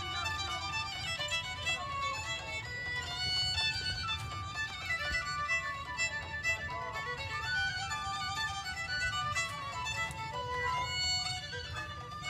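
Violin music: a bowed fiddle playing a melody of held and moving notes, over a low steady rumble.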